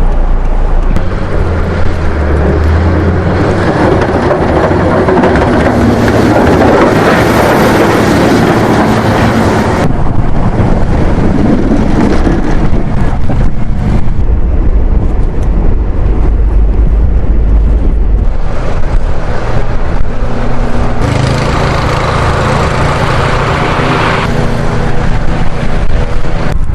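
Outdoor snow-clearing street noise: motor vehicles running, with wind on the microphone, across several shots that change abruptly about ten and twenty-one seconds in.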